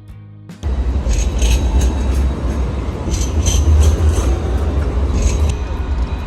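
Train running with a deep, loud rumble and repeated high-pitched squeals, cutting in abruptly over the end of guitar music about half a second in.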